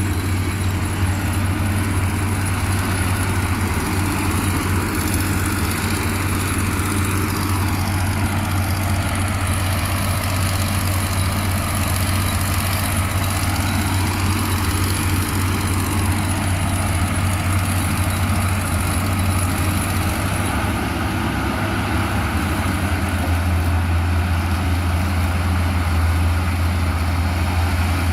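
Engine of heavy road-construction machinery running steadily with a strong low hum that rises and falls slightly in pitch a few times.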